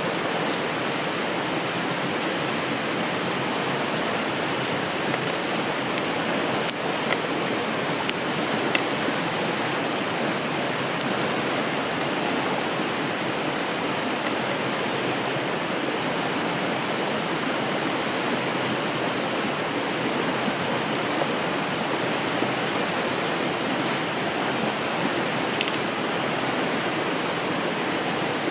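Steady rushing of a river flowing over rocks, with a few faint clicks.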